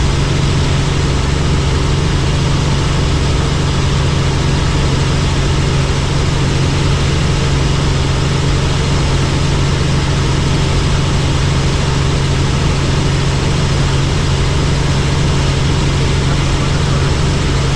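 Helicopter engine and rotor running steadily: a loud, even drone with a strong low hum and no change in pitch.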